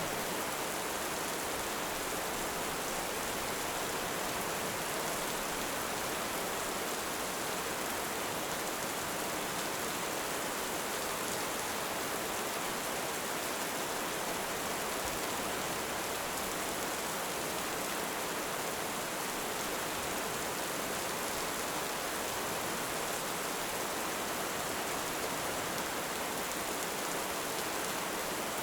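Steady heavy rain, an even, unbroken hiss with no thunder.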